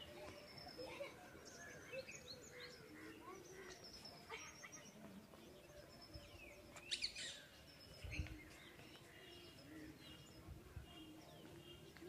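Faint, scattered chirps and short calls of several small birds, with a louder burst of calls about seven seconds in.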